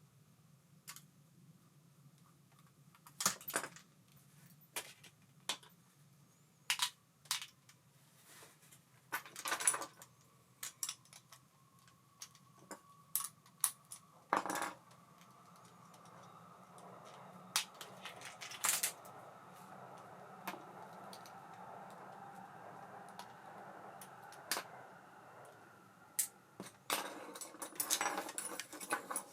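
Small metal parts of an Ambassadeur 5500C baitcasting reel clicking and clinking as it is handled and worked on. A steady whir sets in about halfway and fades about ten seconds later.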